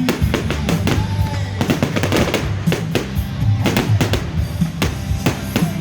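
Fireworks going off in quick, irregular succession, several sharp bangs and crackles a second, over loud music with a bass line.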